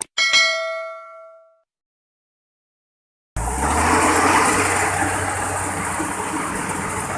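A bell-like chime sound effect rings once and fades over about a second and a half; after a gap of silence, a steady engine and machinery noise starts suddenly about three and a half seconds in, the running of a Kubota rice combine harvester.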